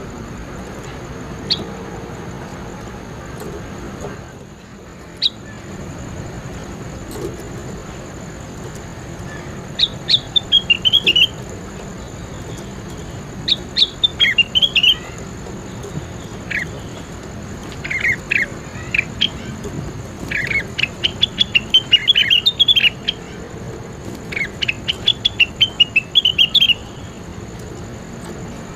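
Cucak wilis singing in bursts of rapid, sharp chattering notes that slur downward, five or six phrases of a second or two each with pauses between, starting about a third of the way in. Under it runs a steady hiss with a faint high whine.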